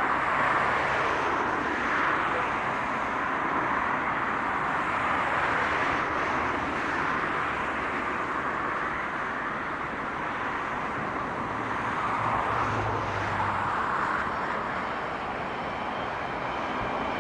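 A train running past on the tracks: a steady rush of wheels on rail that swells and eases a little, with a faint low engine hum about three quarters of the way through.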